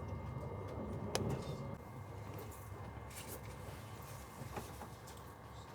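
Low, steady rumble of a Eurostar high-speed train heard from inside the carriage, with one sharp click or knock about a second in and a few faint ticks later.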